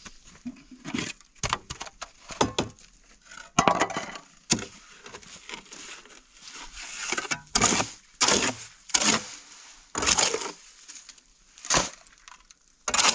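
A string of irregular sharp knocks and snaps, with several longer scraping rushes about halfway through.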